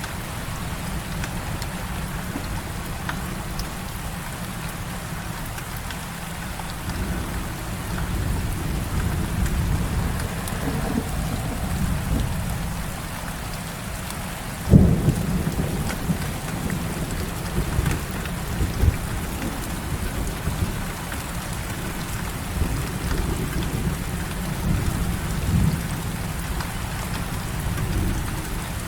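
Heavy rain falling steadily, with low rolling thunder that swells partway through. A sudden loud thunderclap comes about halfway through, followed by a few smaller rumbles.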